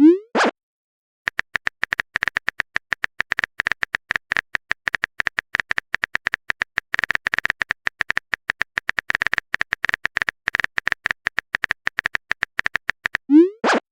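Typing sound effect: a fast, steady run of keyboard-like clicks, several a second, pausing briefly about a second in. A short rising blip, like a message-sent chime, sounds at the start and again near the end.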